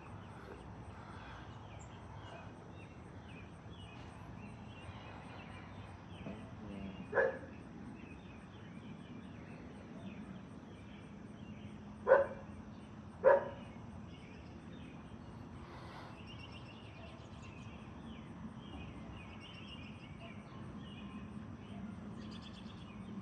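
A dog barks three times, once and then a quick pair about five seconds later, over a steady low outdoor rumble with small birds chirping.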